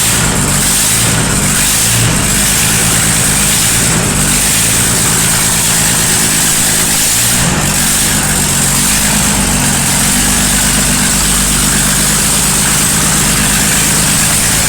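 Ford 6000 Commander's diesel engine running steadily and loudly with a replacement injection pump fitted, its exhaust manifold still off. There is a brief uneven change in speed near the start and again about seven and a half seconds in.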